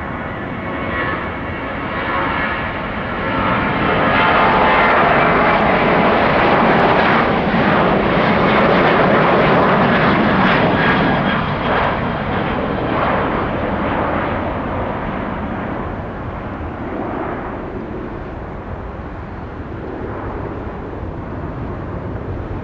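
Jet noise from a departing Boeing 737-800 and its two CFM56-7B turbofans at takeoff thrust. It swells about three seconds in, stays loud for several seconds, then fades slowly as the jet passes.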